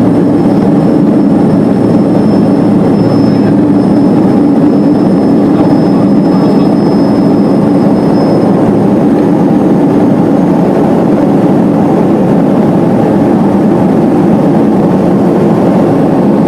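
Steady, loud drone of a turboprop airliner's engines and airflow heard from inside the passenger cabin, deep and unchanging, with a faint thin high whine over it.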